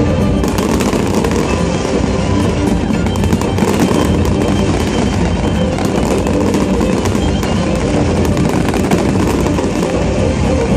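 Fireworks going off without pause, many crackles and bangs packed close together, with music playing under them.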